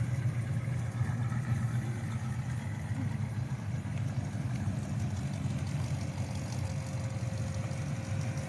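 Classic car engines running at low speed in a slow procession, a steady low rumble.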